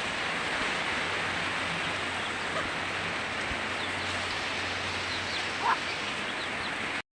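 Heavy rain falling steadily, an even hiss, cutting off suddenly near the end.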